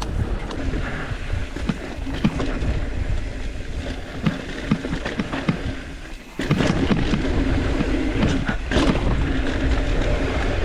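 Mountain bike riding down a rough dirt trail: wind buffeting the microphone, with tyres crunching over rocks and the bike rattling in repeated knocks. It dips briefly about six seconds in, then comes back louder.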